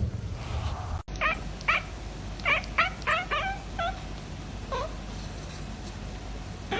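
A young pet animal giving short, high-pitched, falling cries: about seven in quick succession from just after a second to about four seconds in, one more near five seconds, and another at the end.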